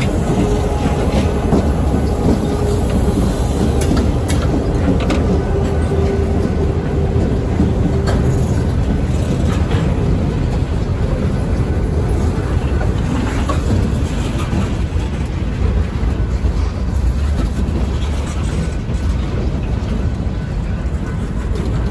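Freight train rolling past at close range. A CSX diesel locomotive goes by first, with a steady tone over the rumble that fades after about eight seconds. Then a string of hopper cars and boxcars rumbles past, the wheels clicking over the rail joints.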